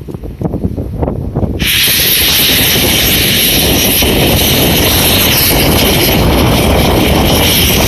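C11 steam locomotive: low rhythmic beats, then about a second and a half in a loud, steady hiss of venting steam starts suddenly and keeps on over a low rumble.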